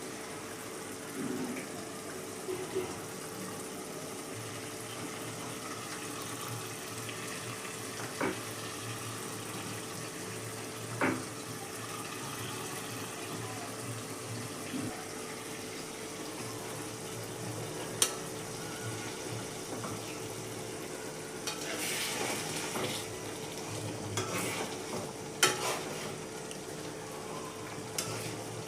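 Food sizzling in a frying pan while a spatula stirs it, with a steady hum and several sharp knocks of the spatula against the pan, busiest a little after the middle.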